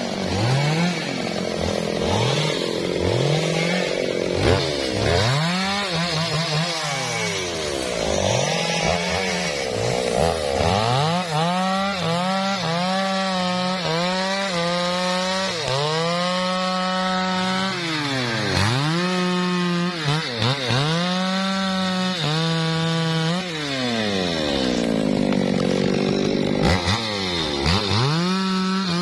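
Two-stroke chainsaw cutting into a teak trunk, the engine held at high revs and then dropping and climbing back in pitch again and again as the throttle is eased off and reopened.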